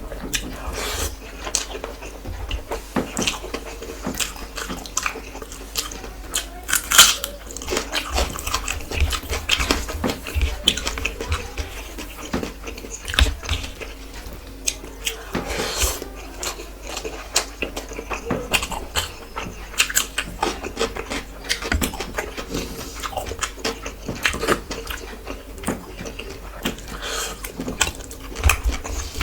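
Close-miked chewing and mouth noises of a person eating rice and curry, with irregular wet smacks and clicks.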